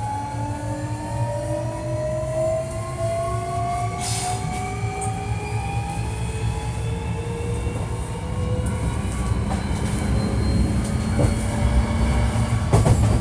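Hankyu 1300-series electric train's traction motor whine, several tones climbing steadily together as the train accelerates, over a steady rumble of wheels on rail with a couple of short knocks. This car is known as an odd-sounding unit with a distinctive acceleration sound.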